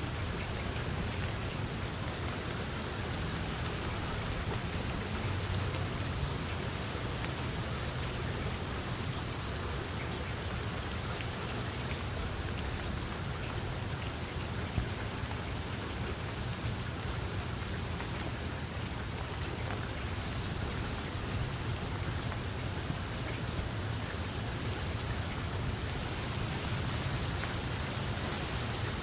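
Steady rain falling, an even hiss with fine drop ticks over a low rumble.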